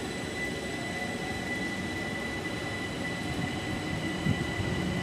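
Railway platform ambience in the rain: a steady hiss of rain under a steady high-pitched whine and a low rumble, with a single dull knock about four seconds in.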